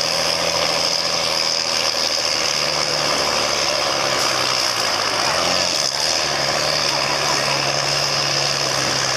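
Farm tractor engine running hard under load, pulling a weight-transfer sled down the pull track. The engine note holds steady, then drops slightly about six seconds in.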